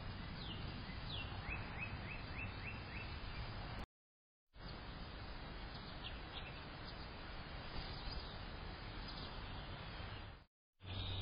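Bird chirps over a steady outdoor hiss: a quick run of about six short, falling chirps early on, then a few fainter scattered ones. The sound drops out completely for about half a second around four seconds in.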